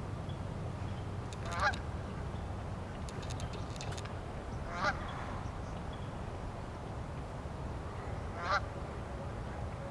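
Three short bird calls, evenly spaced a few seconds apart, over a steady low rumble.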